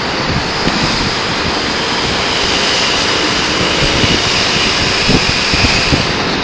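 Aircraft engine droning overhead, heard through heavy wind buffeting on the microphone.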